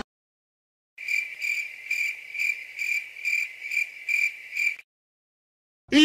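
Cricket chirping sound effect: a run of regular, even chirps, a little over two a second, that starts after a second of silence and stops cleanly. Right at the end a loud shouted 'yeet' begins.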